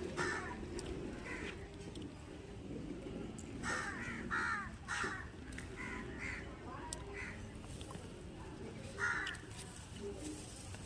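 Birds calling outdoors: a series of short, harsh calls, bunched together about four to six seconds in and again near nine seconds, over a steady low background rumble.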